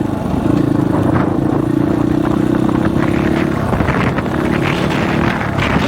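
Dirt bike engine running at a steady pitch under heavy wind noise on the microphone; the engine tone drops away about three and a half seconds in and comes back briefly near the end.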